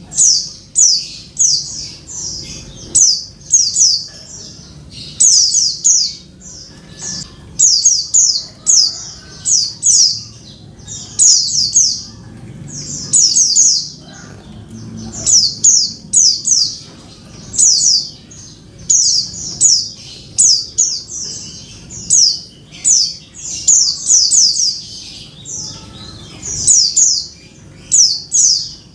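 Female white-eye (pleci) calling: high, short notes that sweep downward, given in quick runs of two to four about once a second. The call is used to rouse male pleci into song.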